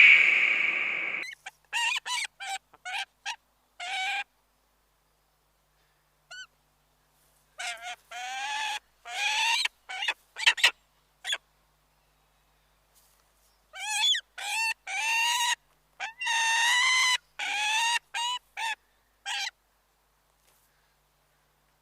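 A bird calling with short honks in three bouts separated by pauses of a few seconds. A louder call ends about a second in.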